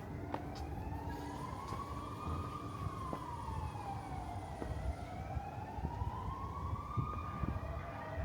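Emergency vehicle siren wailing, its pitch slowly rising, falling and rising again, over steady city street noise.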